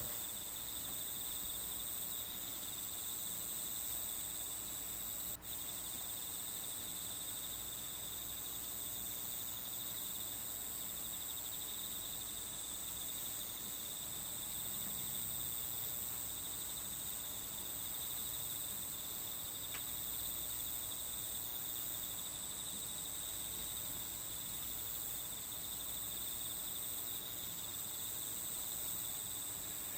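Steady chorus of crickets and other insects, a continuous high chirring that briefly drops out about five seconds in.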